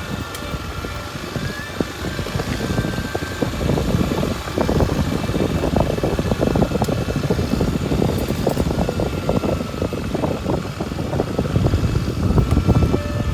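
Kawasaki Super Sherpa's single-cylinder four-stroke engine running as the dual-sport motorcycle is ridden along a forest road, with a faint whine that glides a little in pitch.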